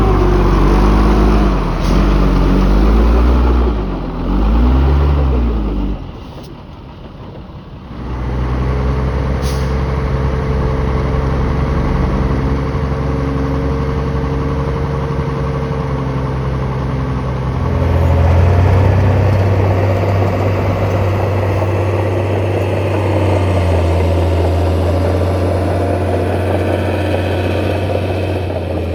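Heavy diesel engines of earthmoving machinery at work: for the first six seconds the engine revs up and down several times, it drops off briefly, then it runs steadily, with a second, deeper engine note taking over about two-thirds of the way through.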